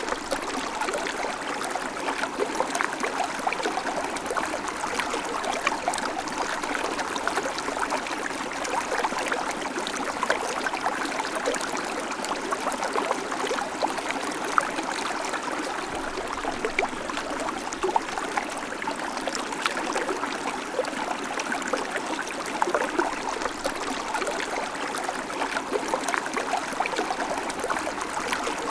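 A babbling creek: shallow water running steadily over stones, with many small splashes and trickles.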